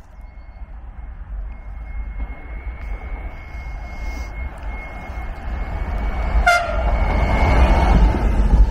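Double-deck electric commuter train approaching and running past, its rumble growing steadily louder, with a thin steady high tone heard over it. About six and a half seconds in, the train gives one short horn toot.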